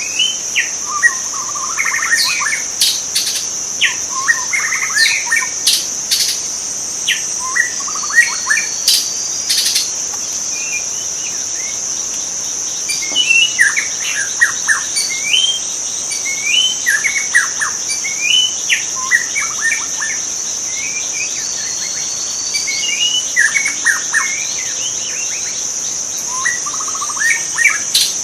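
White-rumped shama singing phrase after phrase of varied whistles and rapid notes, over a steady high-pitched insect drone. A few sharp clicks sound in the first ten seconds or so.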